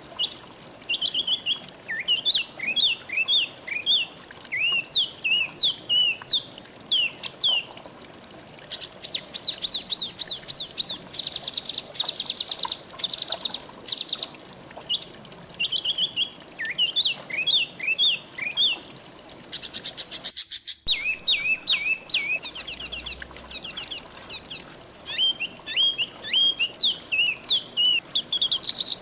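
Songbirds singing: phrases of quick down-slurred whistled notes alternate with fast, rapidly repeated trills, over a steady high hiss. The sound drops out briefly about two-thirds of the way through.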